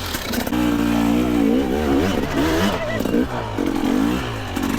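Two-stroke dirt bike engine being revved hard in repeated bursts, the pitch rising and falling as the throttle is worked, typical of a rider attacking a log obstacle.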